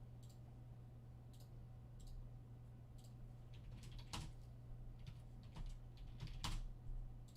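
Irregular clicks of a computer keyboard and mouse as a list is randomized, faint at first and louder in the second half, over a steady low electrical hum.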